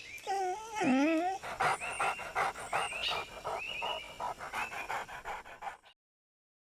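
A dog panting quickly in short, rapid breaths, with a brief wavering whine in the first second or so. The sound cuts off abruptly near the end.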